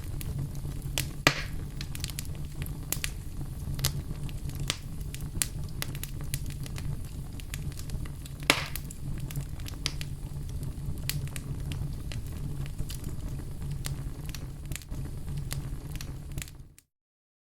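Wood fire burning in a fireplace: a steady low rumble of flames with frequent crackles and sharp pops, two of them louder, about a second in and about eight seconds in. Near the end the sound fades and drops out completely for a moment.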